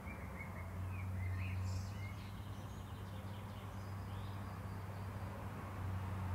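A few short bird chirps during the first three seconds or so, over a steady low hum of street ambience.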